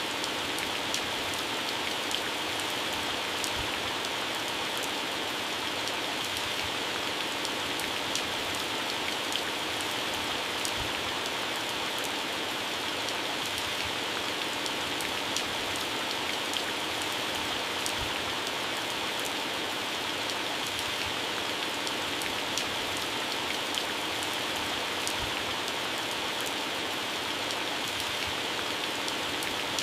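Heavy rain falling steadily on plants, leaves and grass, a constant hiss with many individual drop hits.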